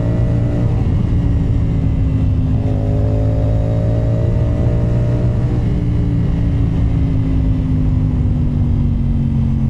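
CF Moto 450SR-S parallel-twin motorcycle engine, fitted with an SC Project slip-on exhaust, running under way at a steady pace. The note changes briefly about a second in, then holds and slowly drops in pitch as the bike eases off.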